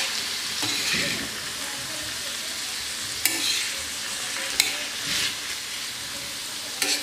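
Sliced onions, potato and dried Bombay duck sizzling in oil on an iron tawa as they are sautéed, stirred and scraped with a metal spatula, with a few sharp clicks of the spatula on the pan.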